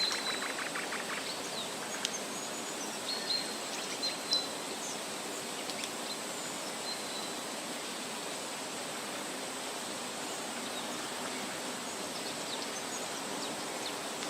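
Steady hiss of outdoor bush ambience, with a few short, high bird chirps scattered through the first half and a brief rapid chatter about a second in.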